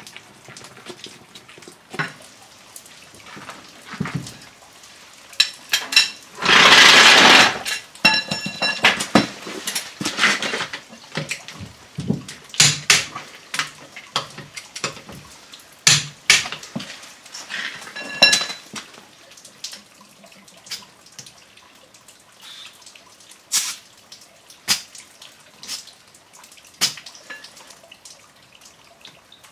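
Scattered clicks, knocks and ringing metallic clinks of hand tools and wheel nuts during a wheel swap, over dripping water. About six seconds in there is a loud rushing noise lasting just over a second.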